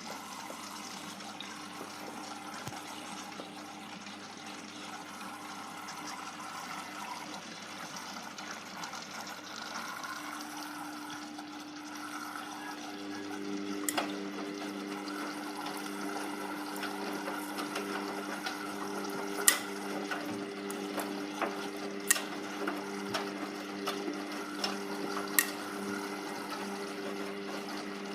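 Hoover Vision Tech washing machine mid-cycle: water rushing and sloshing, joined about eleven seconds in by a steady pump hum, with a few sharp clicks in the second half.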